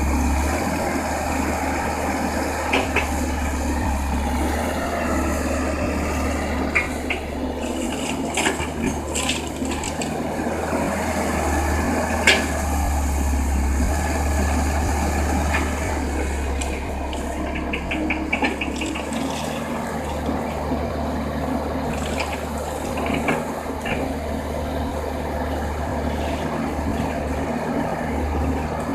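Komatsu excavator's diesel engine running steadily under load, with a rushing hiss and scattered clatters and knocks as crushed rock pours from the bucket into a dump truck bed.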